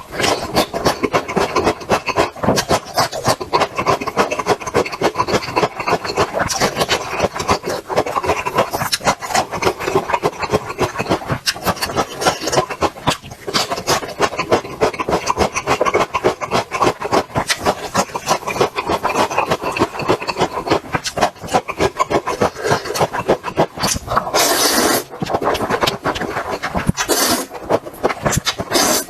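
Close-miked eating: rapid, continuous chewing and crunching of food, with a few short louder hissing sounds near the end.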